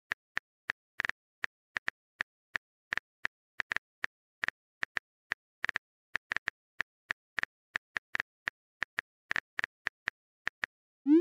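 Phone keyboard typing clicks: short, dry taps at an irregular pace of a few per second. Just at the end a quick rising swoop sound begins.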